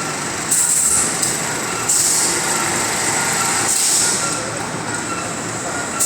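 Automatic 50 kg bagging machine running: steady mechanical clatter broken by short bursts of hissing every second or two.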